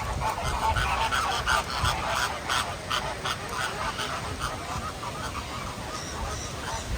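Birds calling in a quick run of short, loud calls, about three or four a second, which thin out after about four seconds; a few fainter, higher calls follow near the end.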